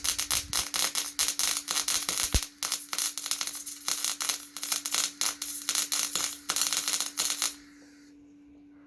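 Electric arc welding: a dense, irregular crackle and sputter from the arc, which cuts off suddenly about seven and a half seconds in.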